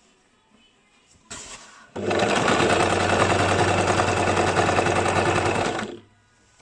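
Basic electric sewing machine running: a brief burst of stitching, then about four seconds of steady stitching that stops suddenly.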